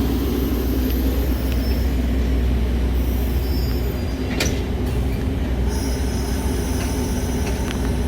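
Metra commuter train rolling through the station: a steady low rumble with thin, high-pitched wheel squeals coming and going in the second half, and one sharp click about four and a half seconds in.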